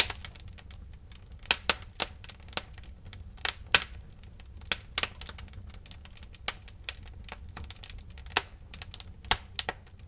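Wood fire crackling in a fireplace: irregular sharp pops and snaps, a few each second, some much louder than others, over a steady low rumble.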